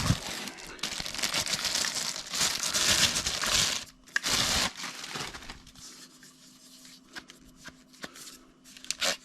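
Plastic wrapping crinkling and tearing as packed parts are unwrapped, loudest for the first four seconds with a shorter burst just after. Then quieter scattered handling clicks.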